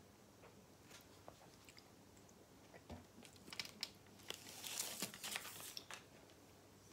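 Watermelon being chewed: soft wet crunching with scattered small clicks, louder and busier for a couple of seconds a little past halfway.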